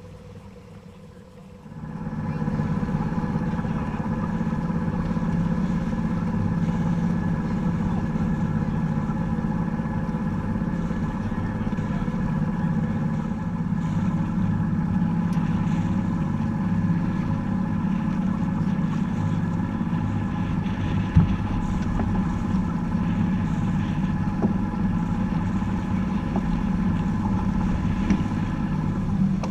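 A sailboat's inboard engine running steadily, a low hum with a constant whine of pitched tones above it. It comes in suddenly about two seconds in and holds an even pitch and level after that.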